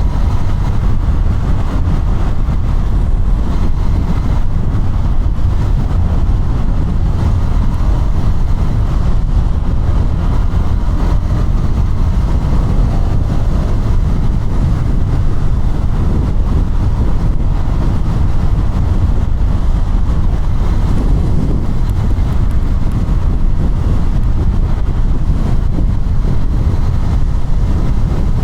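KTM 200 Duke's single-cylinder four-stroke engine running steadily under way, with heavy wind noise on the action camera's microphone.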